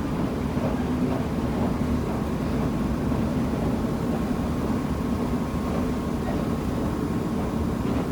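KiHa 75 diesel railcar running steadily along the line: an even rumble of diesel engine and wheels on rail, with a faint steady whine above it.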